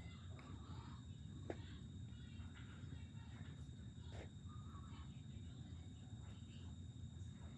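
Faint outdoor ambience: a low steady rumble and a thin steady high tone, with scattered small bird chirps and two sharp clicks, about one and a half and four seconds in.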